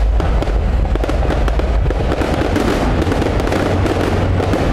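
Fireworks display going off: a dense, continuous crackle of many small bursts in quick succession.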